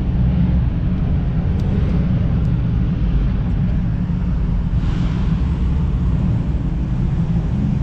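A car's engine and exhaust make a steady deep rumble while the car creeps along at low speed, heard from inside the cabin. A brief whoosh comes about five seconds in.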